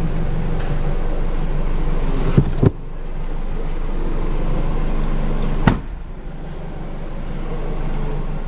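Toyota 1AZ-FSE 2.0-litre four-cylinder engine running steadily, then stopping about two and a half seconds in with two sharp knocks. A single knock follows near six seconds, over a lower steady hiss.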